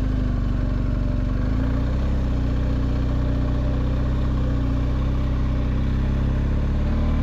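BMW R1250GS boxer-twin engine running under way, its pitch rising about a second and a half in and then holding steady.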